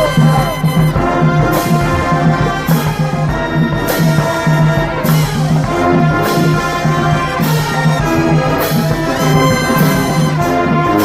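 A marching band playing: brass chords over a steady low sousaphone bass line, with cymbal crashes about once a second.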